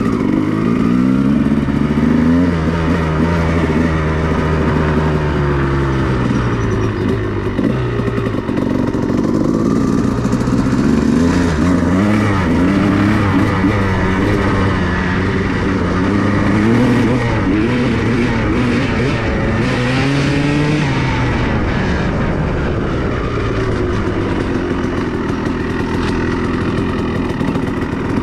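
2002 Honda CR250R's single-cylinder two-stroke engine revving as the dirt bike is ridden, its pitch climbing and dropping again and again through the throttle and gears.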